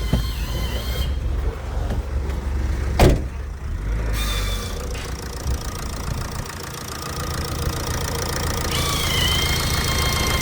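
Ford Transit Connect 1.8 TDCi diesel engine running steadily, with a high whine that fades out about a second in and comes back near the end. A single sharp knock sounds about three seconds in.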